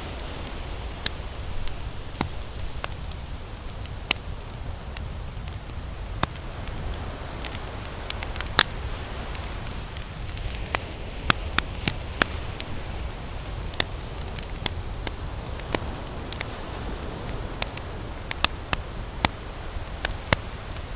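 Campfire crackling, with irregular sharp pops of burning wood a few times a second over a steady low rumble.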